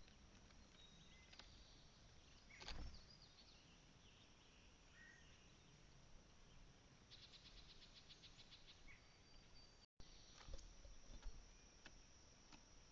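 Faint outdoor ambience with scattered distant bird chirps and a short rapid trill of about seven or eight notes a second around the middle. A few soft thumps stand out, the loudest about three seconds in.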